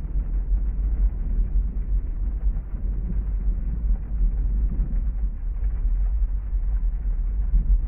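Heavy rain falling steadily, an even hiss over a continuous deep low rumble.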